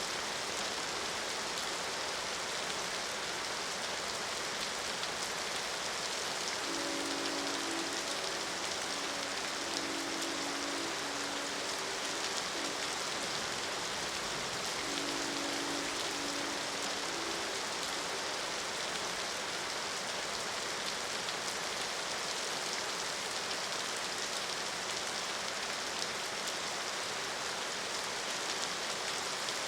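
Steady, heavy rain falling. A distant train horn sounds a low chord in several long blasts from about 7 to 13 seconds in, then once more around 15 to 17 seconds.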